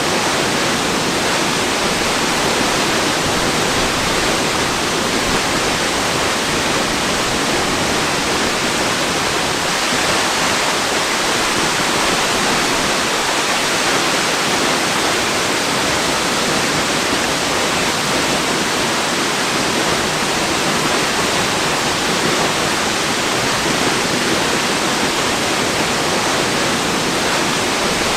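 Waterfall's steady rush of falling water: an even, unchanging hiss.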